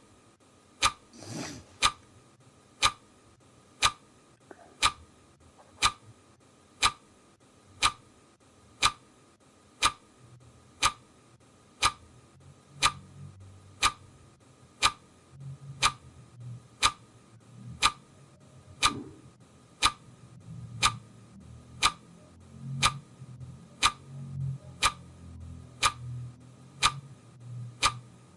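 Clock ticking, one sharp tick a second, very regular. A faint low rumble sits under the ticks in the second half.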